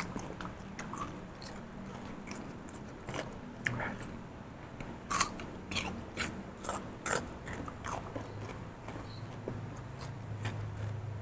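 Close-up chewing of crisp raw cucumber: irregular wet crunches and crackles, thickest about halfway through.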